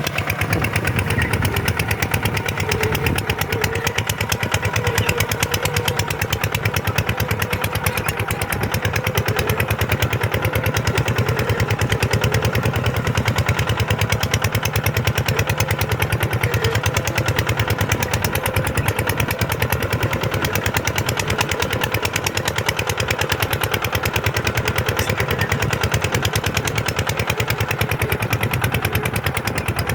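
Kubota tractor's diesel engine running steadily under work, with a fast, even pulse.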